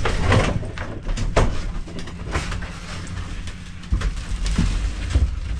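Irregular knocks and clunks of equipment being handled, over a steady low hum.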